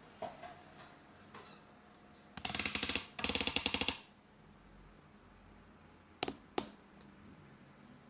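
Plastic keys of a wireless keyboard clattering in two rapid bursts of fast, even clicks, followed a few seconds later by two single sharp clicks.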